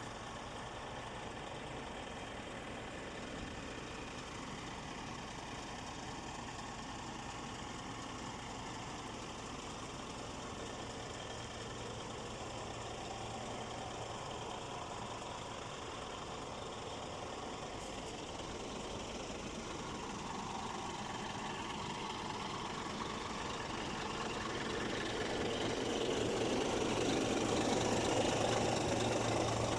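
Scania R440 truck's diesel engine running steadily; the sound grows louder over the last ten seconds or so.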